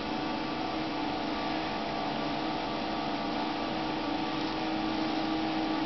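Steady hum of an ultrasound machine: a constant low electrical tone over an even fan-like hiss, unchanging throughout.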